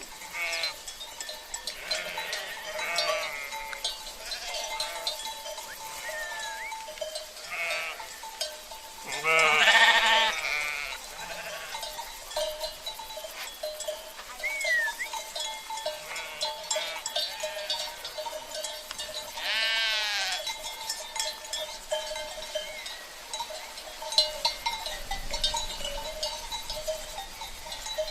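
Sheep bleating now and then over the steady jingle of their cowbells. The loudest bleat comes about a third of the way in, and another clear one about two-thirds in.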